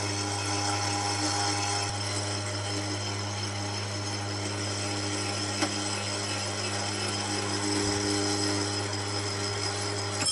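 Milling machine feeding a slitting saw through A2 tool steel: a steady motor hum under a constant, many-toned metallic ringing from the cut. The cut sounds wrong to the machinist, who then tightens the tool.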